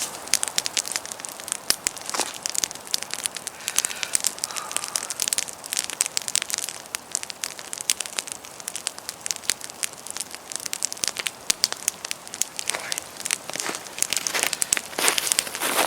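Wood campfire crackling and popping in irregular sharp snaps, with a denser, louder run of crackles near the end.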